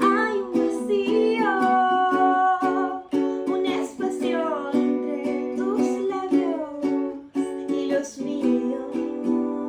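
A woman singing a slow song over a strummed acoustic string instrument, in a small room; the voice falls silent near the end while the strumming carries on.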